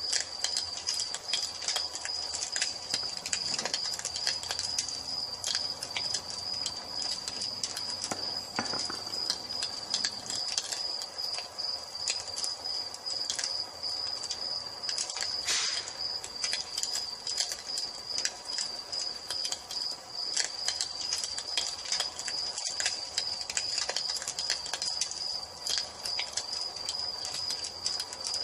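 Wood fire crackling with frequent sharp pops, over a steady high-pitched cricket trill that never stops.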